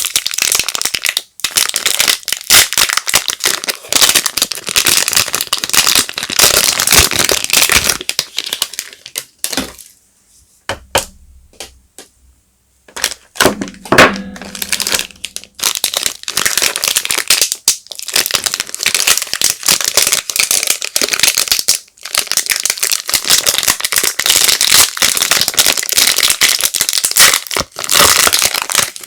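Soap wrappers crinkling and rustling as bars of soap are unpacked by hand, thick with sharp crackles. About ten seconds in it drops to a few separate clicks for some three seconds, then the crinkling starts again.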